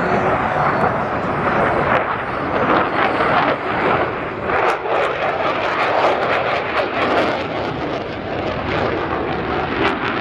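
Fixed-wing aircraft flying by: a loud, steady rushing engine noise, with a run of sharp crackles through the middle.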